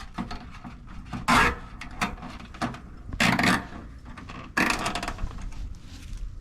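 Handling noise from Christmas light strings being fastened with zip ties: three short noisy bursts with small clicks between them.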